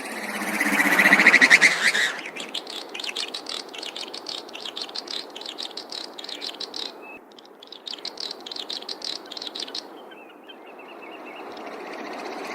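Swinhoe's snipe display sounds. A swelling, rushing sound peaks about a second in. It is followed by a long run of rapid, dry rattling notes lasting about eight seconds, which breaks off briefly around the middle. Another swell builds near the end.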